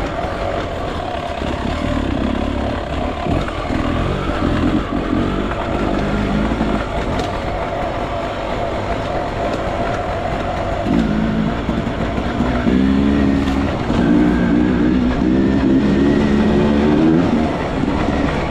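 Enduro motorcycle engine revving up and down under throttle. Its pitch rises and falls repeatedly, in quick short surges during the second half.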